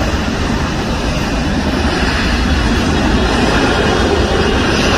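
Aircraft engine noise: a steady, loud rumble that holds level throughout.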